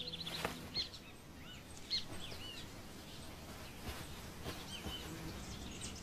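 Small birds chirping: short, scattered chirps every second or so over a faint outdoor hiss.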